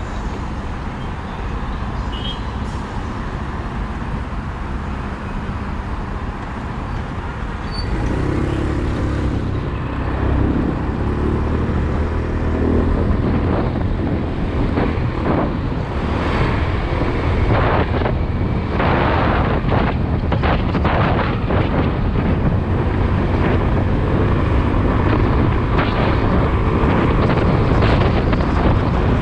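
Motorcycle riding through city traffic: engine running under way, with wind buffeting the microphone. It gets louder about eight seconds in, when the engine note comes up.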